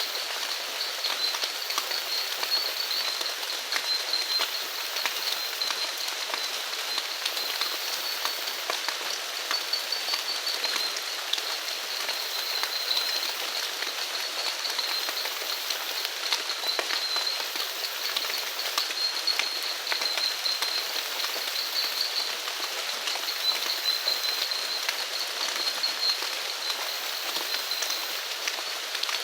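Steady rain falling, with many individual drops ticking close by. A continuous high trill of insects runs over it.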